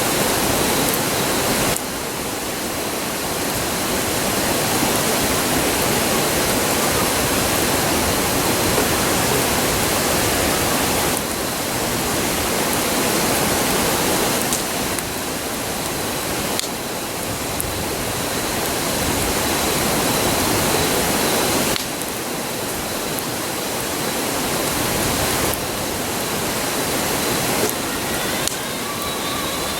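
Steady rush of a river, an even roar with a few sudden small dips in level.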